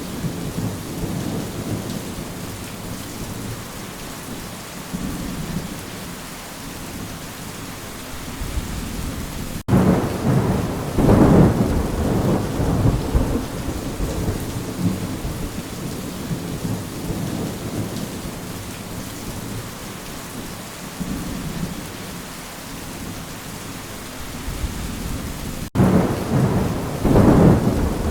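Rain falling steadily, with a loud rumble of thunder breaking in suddenly about ten seconds in and again near the end, each rolling on for a couple of seconds.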